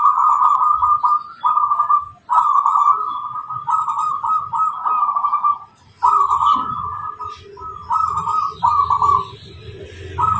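Zebra dove (perkutut) singing: phrase after phrase of quick, rolling coos, each about a second long with short breaks between them. A low rumble rises in the background during the second half.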